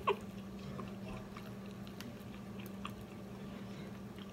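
A person biting into and chewing fried chicken close to the microphone. There are a few sharp crunchy clicks right at the start, then soft, wet chewing with small scattered clicks.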